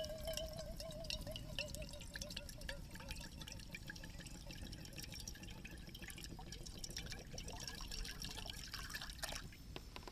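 Wood campfire crackling with liquid bubbling and dripping, a dense run of sharp pops and ticks that stops shortly before the end. A faint wavering whine slowly falls in pitch and fades over the first few seconds.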